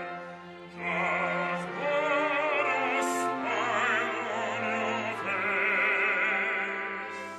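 Operatic singing with wide vibrato in long held notes over instrumental accompaniment, with a short break between phrases just before a second in.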